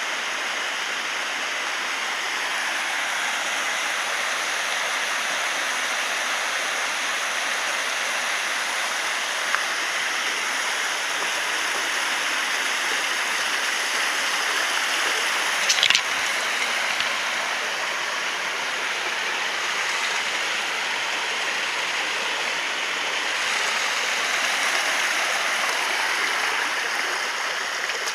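Water rushing at a waterfall: a steady, even noise, with a brief sharp knock about halfway through.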